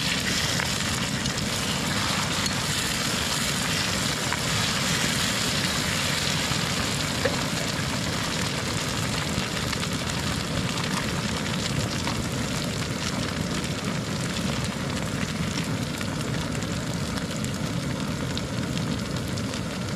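Onion-tomato masala sizzling in a steel wok over a camp stove, with the burner's steady roar underneath and a single small click about seven seconds in.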